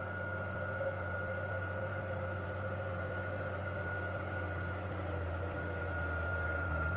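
Diesel truck engine running steadily under load, with a constant whine over a low hum, getting a little louder about five seconds in.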